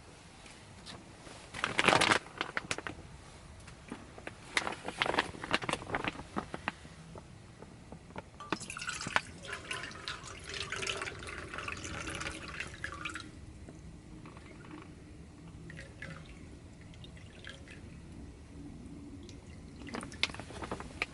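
Cookware handled with sharp clicks and knocks, and liquid poured for about four seconds midway through.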